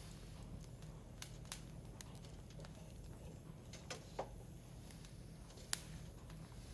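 Firewood burning in a Picogrill fire pit: crackling, with scattered sharp pops at irregular intervals over a steady low hum. The loudest pop comes near the end.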